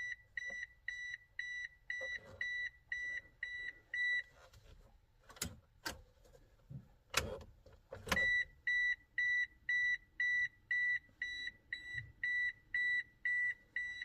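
Mitsubishi Eclipse's electronic warning chime beeping steadily, about two high beeps a second. It stops about four seconds in, a few sharp clicks and knocks sound, and the beeping starts again about eight seconds in.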